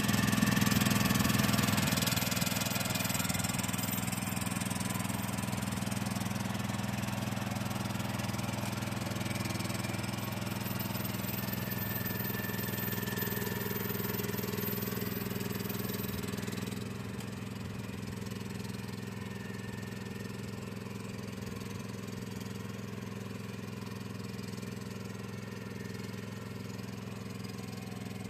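Mahindra rice transplanter's engine running steadily, loudest at the start and a little quieter from about two-thirds of the way through.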